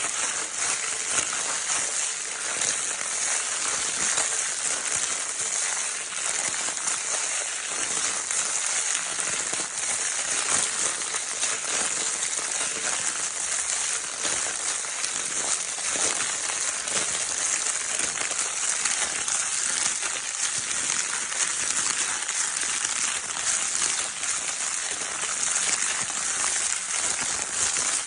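Crinkle paper of a baby's crinkle toy being scrunched and rustled continuously, a dense crackling with no pauses.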